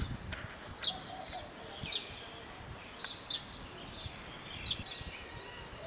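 A small bird chirping: short, sharp, high chirps repeated about once a second over faint street background noise.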